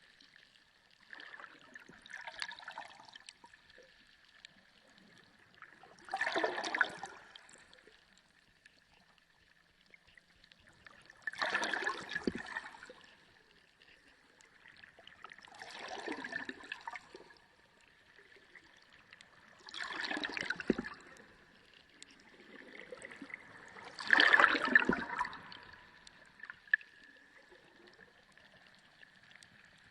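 Sea water sloshing and gurgling in six surges, one about every four to five seconds, like waves washing in. The last surge is the loudest. A faint steady high tone runs underneath throughout.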